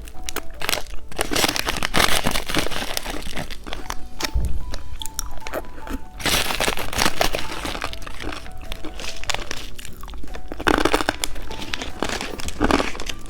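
Close-up eating of a hard foot-shaped candy with popping candy: dense, irregular crunching and crackling throughout.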